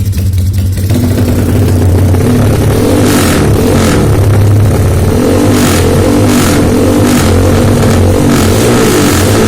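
Motorcycle with an aftermarket racing exhaust, revved up about a second in and held at high revs, with a regular chopping beat about once a second that gives it a helicopter-like sound.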